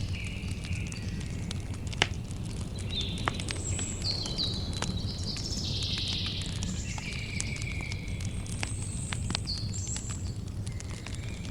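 Campfire crackling, with many small pops and a sharp louder pop about two seconds in, over a steady low rumble. Birds chirp in short notes throughout.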